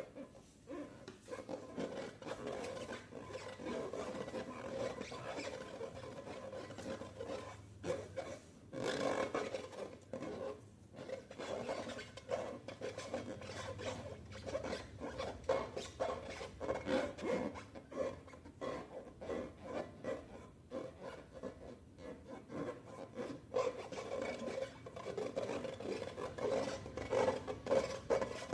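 Slime being stirred and squished, a sticky crackling made of many quick small clicks and squelches that goes on with only brief pauses.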